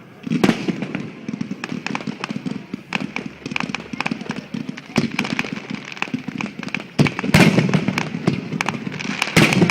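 Aerial fireworks display: a rapid run of bangs and crackling, with heavy bursts about half a second in, around seven seconds, and again near the end.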